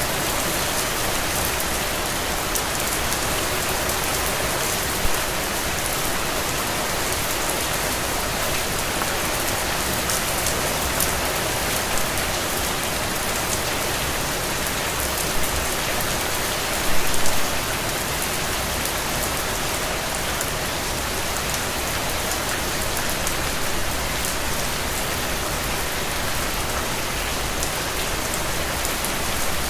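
Steady rain falling, an even hiss with many fine drop ticks. A few louder hits stand out, the loudest a short cluster a little past halfway through.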